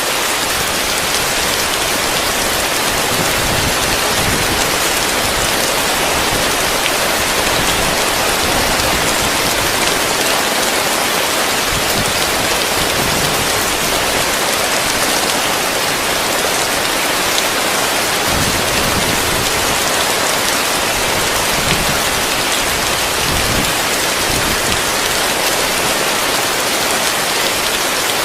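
Heavy rain falling on a roof, a steady, dense patter.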